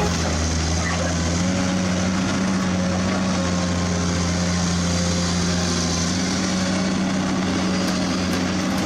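A radio-controlled toy truck's electric motor and gearbox running with a steady hum.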